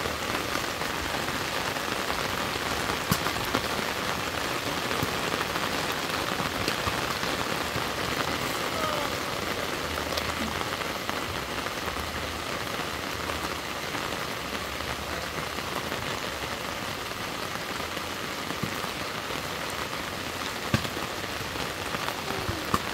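Steady rain falling: an even hiss of rain on surfaces with scattered sharper drip impacts.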